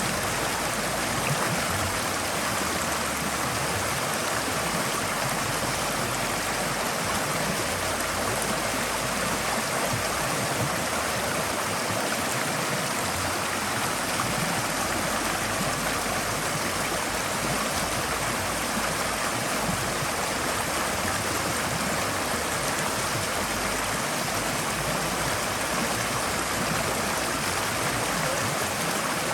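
Forest stream flowing, a steady dense rush of water over rocks with no change in level.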